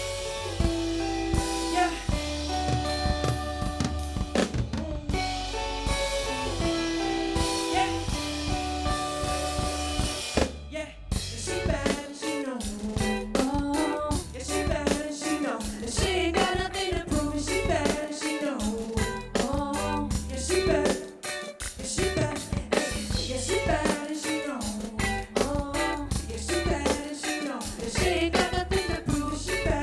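Live band music with a drum kit keeping a steady beat under held chords. After a short break about 11 seconds in, a new section starts with a steady bass line and a wavering lead melody over the drums.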